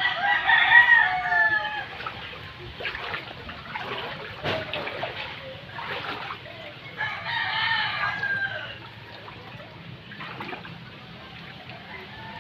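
Rooster crowing twice: one long call right at the start and another about seven seconds in.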